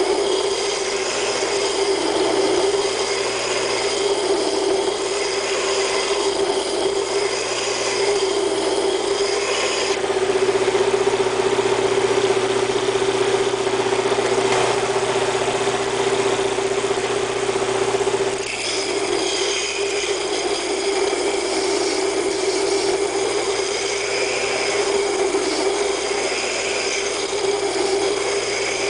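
Double-wheel hollow grinder running a 50-grit belt over 6-inch contact wheels, with a steady hum under the hiss of O1 tool steel being rough-ground. The grinding noise dips briefly about eighteen seconds in.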